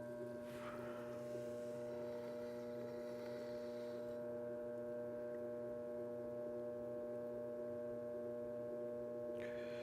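Electric potter's wheel motor humming steadily as it spins, a low hum with several steady tones. Faint brief swishes come about half a second in and again around three seconds in.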